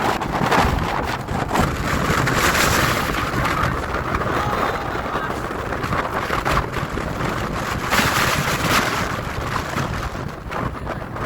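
Storm wind blasting the microphone as a loud, continuous rumble, over the rush of ocean surf. It swells louder twice, about two seconds in and again near the end.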